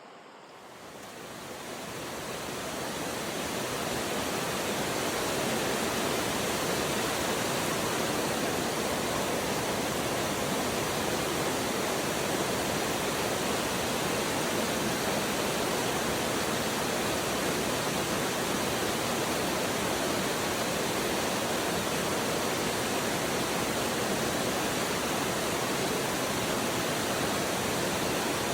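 Steady rushing water with an even, full hiss, swelling in over the first few seconds and then holding constant.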